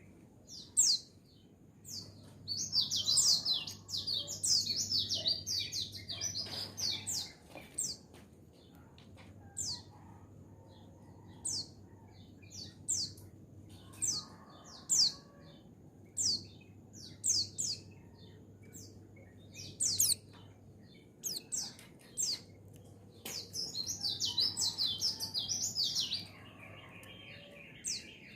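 Pleci (white-eye, Zosterops) singing, high and twittering. A run of rapid chirps about two seconds in lasts several seconds, and another comes near the end, with single short chirps in between.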